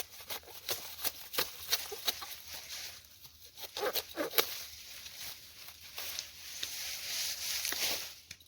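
Napier grass being cut by hand at the base: a run of irregular sharp cuts, about two or three a second, over the rustling of stalks and leaves, which grows louder about six seconds in and dies down near the end.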